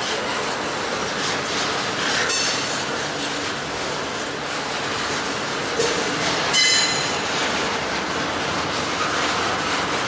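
Double-stack intermodal container train rolling past, its cars and wheels making a steady rumble and rattle. Brief high metallic wheel squeals come about two seconds in and again after six seconds, with a clank just before the second squeal.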